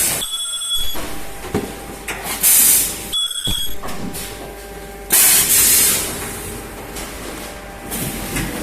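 Plastic-welding machine for cylindrical boxes cycling, with loud bursts of hiss about every three seconds and a short high steady tone twice between them.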